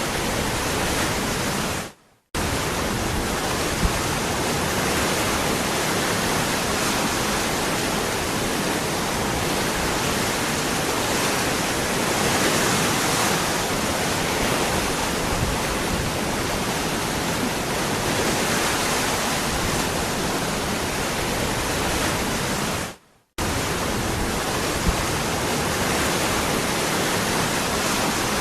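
Waterfall rushing in a steady, even roar of falling water, cutting out to silence for a split second twice, about two seconds in and again near the end.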